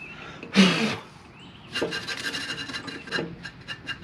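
Metal-on-metal hand-tool work while fitting a new mower-deck spindle: a loud scraping swish about half a second in, then a steady run of quick, ringing ratchet clicks, about seven a second.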